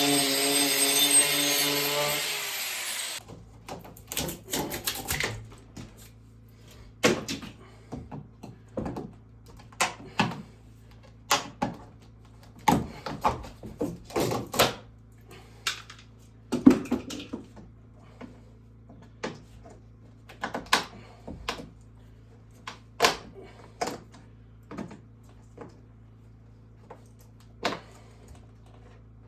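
Woodwork: for about three seconds a loud, steady pitched sound runs, then stops sharply, followed by irregular knocks and clunks of tools and wood, roughly one a second, over a low steady hum.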